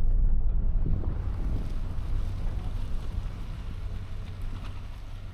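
Low rumble of a car driving on a rough, unpaved road, with wind noise on the microphone, slowly fading.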